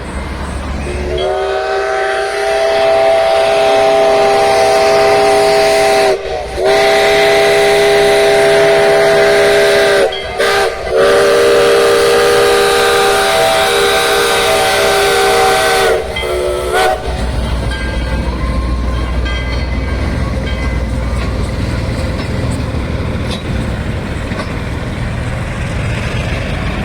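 Locomotive whistle sounding a multi-note chord in three long blasts and then a short toot. It is followed by the low rumble of the passing train.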